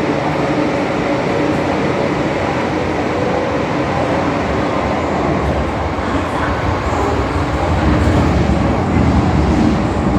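MTR M-Train electric multiple unit running through a tunnel, heard from inside the train: a steady rumble of wheels and running gear with a faint even hum, growing a little louder in the last few seconds.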